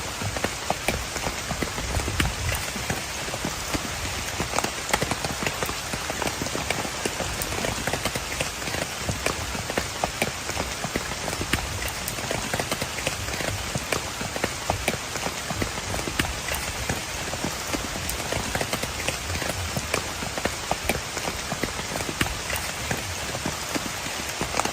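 Steady rain, with many separate drops striking close by in a dense patter.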